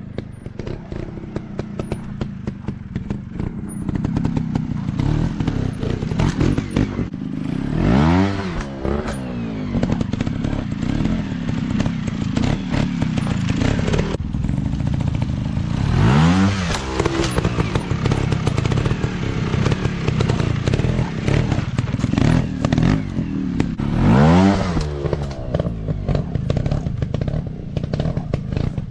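A 150 cc dirt bike engine running at a low, steady chug, with three sharp revs spaced about eight seconds apart, each rising steeply in pitch. Clatter and thuds run through it.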